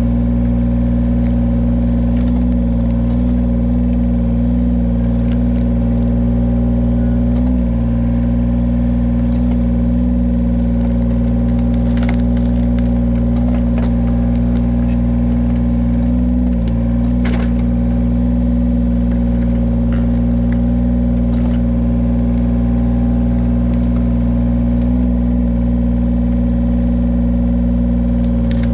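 Engine of a firewood-splitting machine running steadily, its pitch sagging briefly twice as it takes load, with a few faint sharp clicks.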